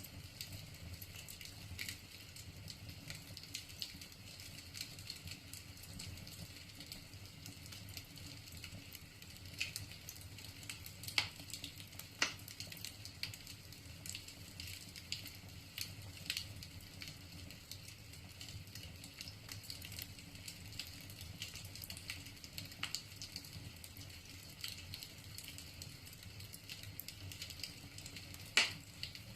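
Wood fire burning in a fireplace, logs crackling with frequent small snaps and a few louder pops over a steady low rush of flame.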